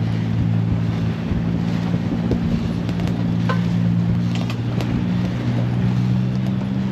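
A sailboat's inboard diesel engine running steadily under motor, with wind buffeting the microphone and a few faint clicks.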